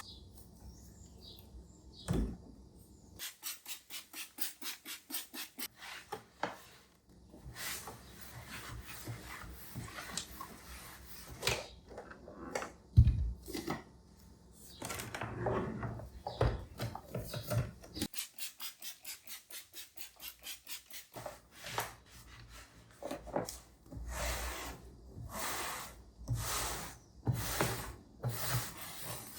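Rhythmic back-and-forth scrubbing strokes during household cleaning, about three a second in runs, with one sharp knock partway through.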